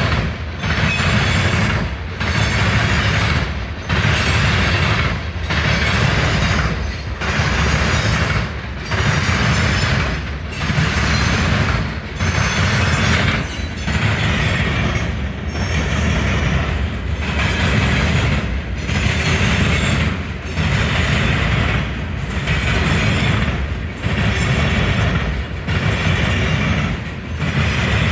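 A long train passing close by on the tracks, a loud rumble and rail noise. The noise dips briefly at a steady rhythm, about once every second and a half to two seconds, as the cars go by in turn.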